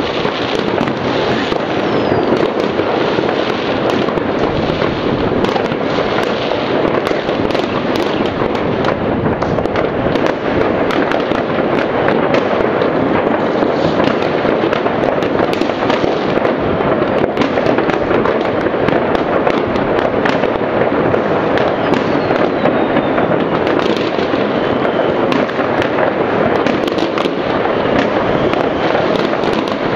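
Dense, continuous barrage of many distant New Year fireworks and firecrackers going off across a town: countless bangs and crackles merging into a steady din. A thin falling whistle cuts through twice, once about a second in and again past the middle.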